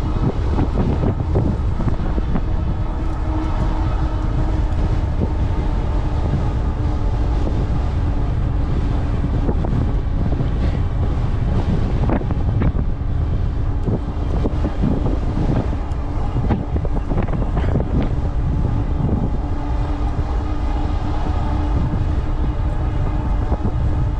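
Strong wind buffeting the microphone during an e-bike ride into a heavy headwind, a loud, gusting rumble. Under it runs a steady hum from the e-bike's 750-watt Bafang rear hub motor under load.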